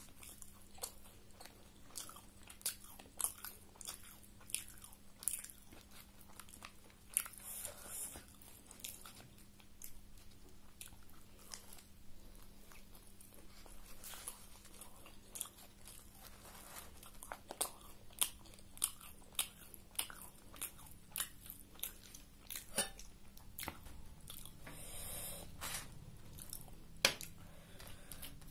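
A person biting and chewing a homemade egg roll with a crisp fried wrap, close to the microphone: sharp crunching bites and mouth clicks at an irregular pace, often one or two a second.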